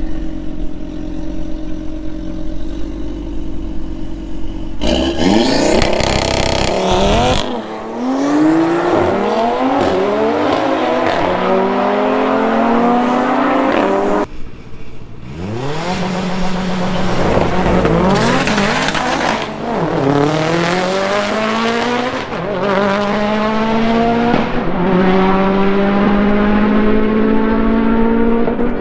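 A car engine running steadily, then revving hard under acceleration about five seconds in, its pitch climbing and dropping back again and again as it goes up through the gears.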